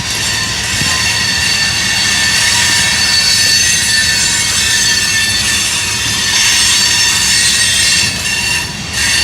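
Norfolk Southern train rolling past, its wheels squealing in several steady high-pitched tones over a constant rumble. The squeal dips briefly near the end.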